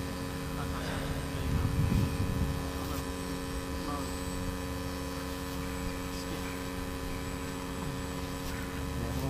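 Steady electrical hum made of several unchanging tones, over a low wind rumble on the microphone that swells briefly about two seconds in.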